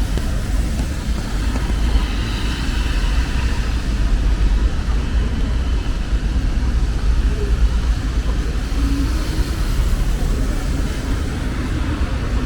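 City street traffic running steadily with a constant hiss of rain.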